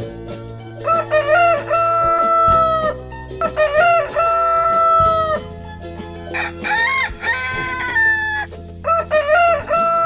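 Rooster crowing, four cock-a-doodle-doo calls in a row, each rising and then holding a long note, over a steady background music bed.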